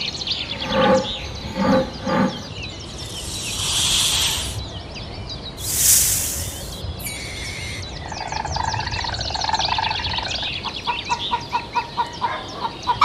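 Small birds chirping rapidly, mixed with a few short animal calls and two brief bursts of hiss-like noise.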